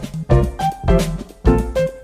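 A phone's musical ringtone: a melody of pitched keyboard-like notes over a drum beat, with strong beats about twice a second.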